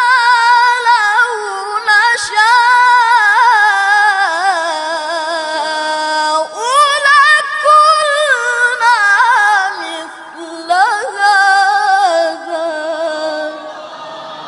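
A boy's high voice reciting the Quran in melodic tilawah style, with long held notes and quick wavering ornaments, pausing briefly for breath about six and ten seconds in.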